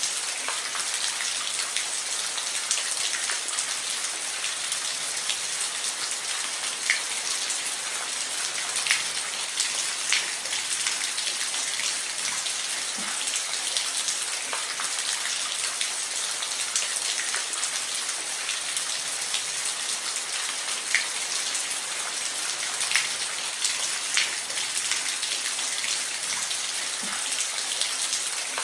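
Steady rain falling on a roof: a constant hiss of rainfall with scattered individual drops ticking and pattering on the surface.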